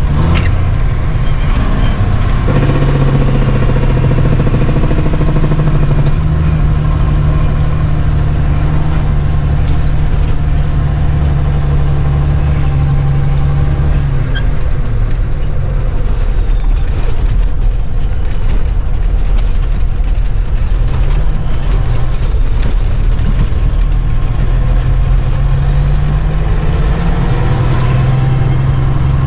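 Semi truck's diesel engine running steadily. Its note sinks and climbs again in the second half, with a high whine above it that slides down and back up.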